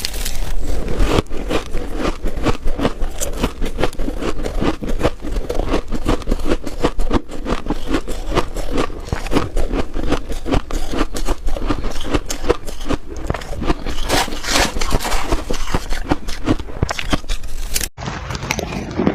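Close-up, continuous crunching and scraping of freezer frost, a dense stream of crisp crackles and crunches. There is a brief sudden break near the end.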